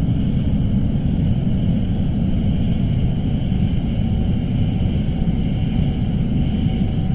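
Suspense ambience sound effect: a steady, dense low rumbling drone with faint sustained high tones above it, unchanging throughout.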